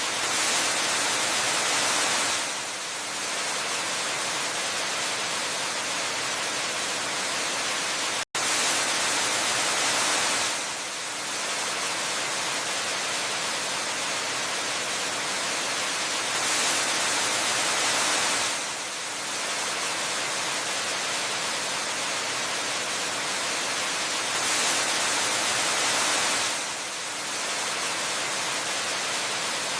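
Steady rushing hiss of a waterfall, heaviest in the high end, swelling louder for about two seconds at regular intervals of roughly eight seconds. There is a momentary dropout to silence about eight seconds in.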